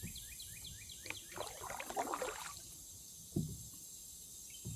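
Kayak paddle stroke splashing and swishing through lake water, followed by two dull knocks.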